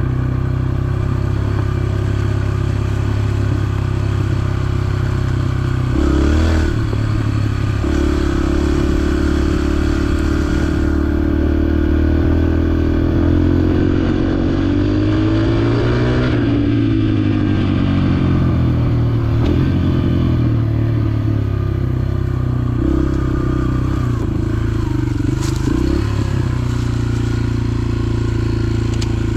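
Dirt bike engine running under way. Its pitch shifts about six seconds in, climbs steadily for several seconds, then drops and rises again as the rider works the throttle through the gears.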